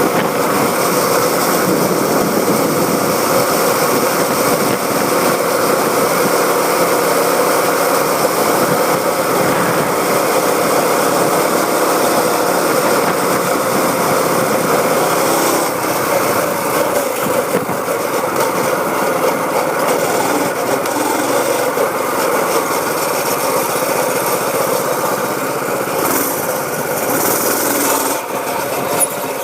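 Dirt bike engine running steadily, with brief shifts in its sound about halfway through and near the end.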